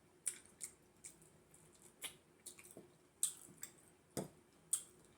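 Close-up eating sounds of soft fufu and soup: irregular wet smacks and squishy clicks of a mouth chewing, about ten in a few seconds.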